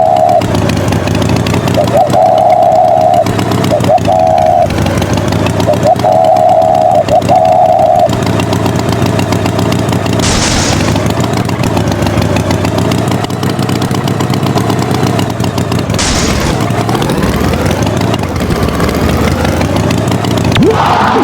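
Engine of a cartoon tractor running steadily. A higher held tone sounds on and off several times in the first eight seconds, and there are two short rushing bursts, about ten and sixteen seconds in.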